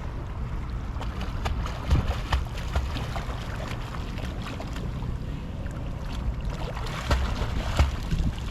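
Wind buffeting the microphone by the sea, with scattered clicks and a few louder thumps, twice about two seconds in and twice near the end.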